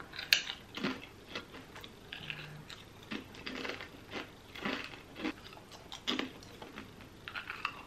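A person biting into a thin, crunchy crisp and chewing it close to the microphone: a string of irregular crackly crunches, the first bite the sharpest.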